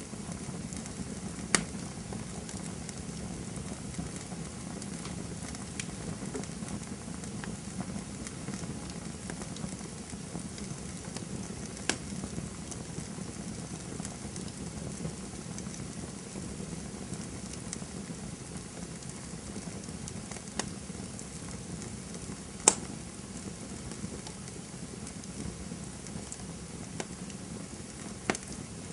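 Campfire burning with a steady low hiss and rumble, broken by sharp crackles and pops every few seconds, the loudest a little over 22 seconds in.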